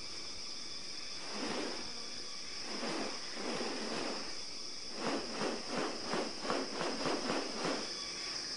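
New Guinea rainforest ambience: a steady high-pitched insect buzz, with swells of rasping noise and, about five seconds in, a run of quick pulses at roughly three a second.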